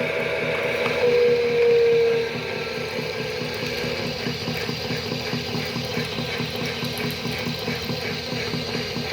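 Toy washing machine running, its small motor and plastic gears making a steady, rapid ticking rattle. About a second in, a single tone sounds for just over a second, sliding slightly down in pitch.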